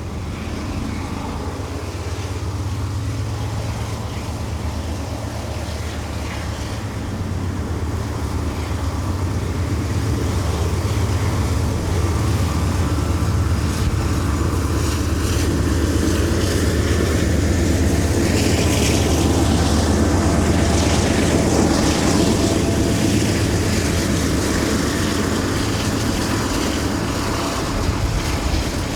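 A passing train: a steady low engine rumble that grows louder, peaking about two-thirds of the way through.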